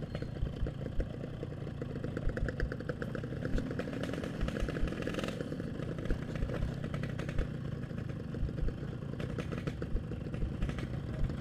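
Yamaha RX-King's single-cylinder two-stroke engine running steadily, with a fast, even exhaust pulse and no big revs.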